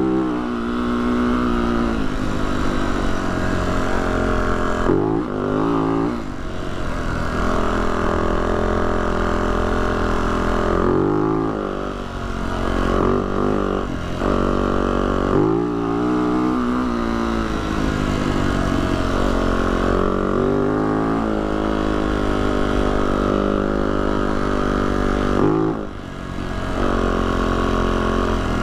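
Yamaha YZ450F dirt bike's single-cylinder four-stroke engine running under load, its pitch rising and falling as the throttle opens and closes, with several brief drops in revs, the deepest near the end.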